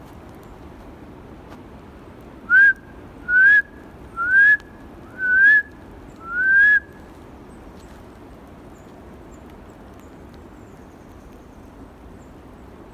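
A person whistling five short notes in a row, each gliding upward, a typical call to dogs. The notes are loud against the quiet background and run over about four seconds, then stop.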